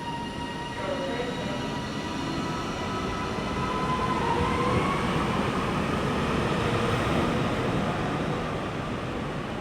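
Train moving through the station with a high whine over the rumble of the train. The whine rises in pitch around the middle as the noise swells to its loudest about two-thirds through, then eases off.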